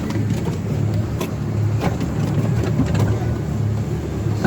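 Miniature railway train running: a steady low drone with a few scattered clicks and knocks.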